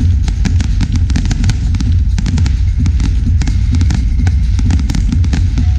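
Fireworks display: a dense, continuous run of rapid crackles and bangs over a deep, steady low rumble.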